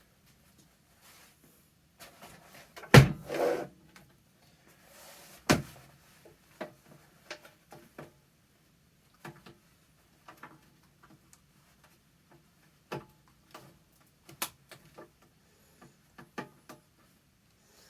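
Knocks, clicks and taps from handling a vintage Eureka upright vacuum cleaner and its parts, with two heavier knocks about three and five and a half seconds in and lighter clicks scattered after. No motor runs: the vacuum is not starting.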